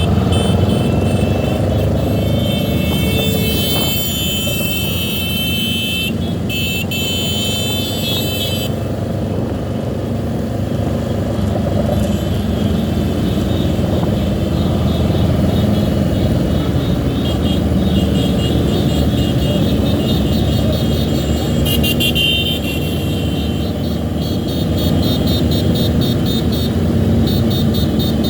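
Motorcycle and car engines running steadily in slow road traffic, a continuous rumble. High, rapidly repeating tones sound over it through the first third and again through the last third.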